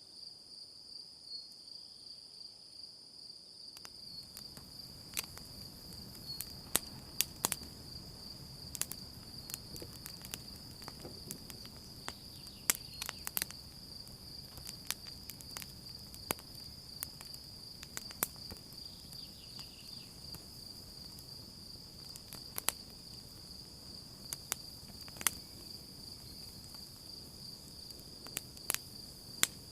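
Campfire crackling with irregular sharp pops, which start about four seconds in, over a low rush of burning wood. Crickets chirr steadily the whole time.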